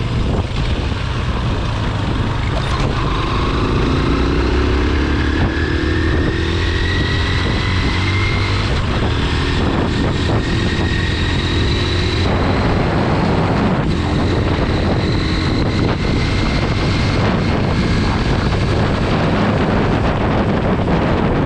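Honda NX 200 single-cylinder motorcycle engine running under way, its pitch climbing slowly as it accelerates and dropping back at gear changes, over a heavy steady rumble of wind on the microphone.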